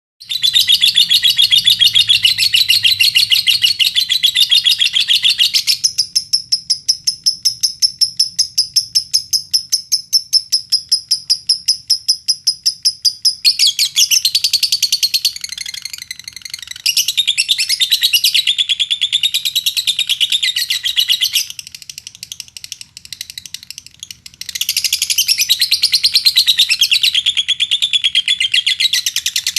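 Lovebird singing a long, nearly unbroken chatter of rapid high notes. About six seconds in it changes to a steady run of evenly repeated, higher trilled notes for about seven seconds, then returns to dense chatter, with a softer lull about three quarters of the way through.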